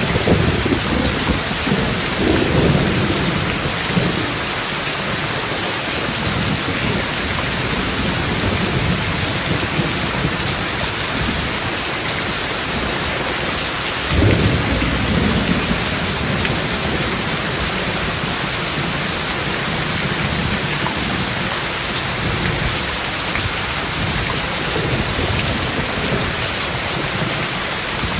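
Steady heavy rain with thunder. One rolling rumble opens it and fades over about four seconds, and a second, sharper clap about halfway through rumbles away over the next few seconds.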